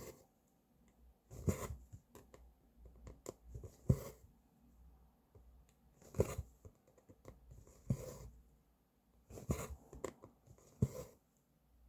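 Cross-stitch needle and thread being pulled through the fabric, a soft rasp about every two seconds, six strokes in all.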